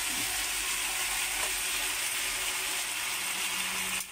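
Chicken pieces sizzling as they fry in oil in an uncovered wok: a steady hiss that dips suddenly near the end.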